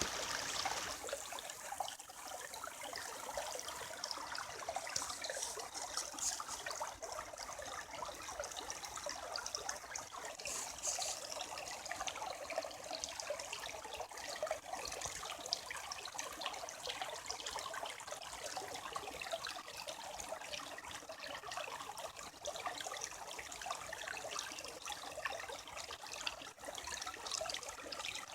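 Creek water running steadily: a continuous flow of many small splashes, mostly high in pitch, with little low rumble.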